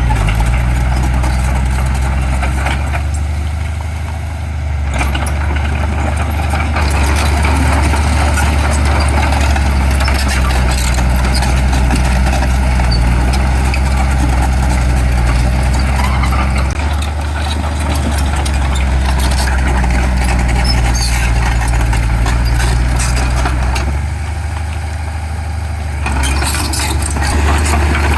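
Heavy diesel engine of earthmoving machinery running steadily at a low pitch, easing off briefly a few times.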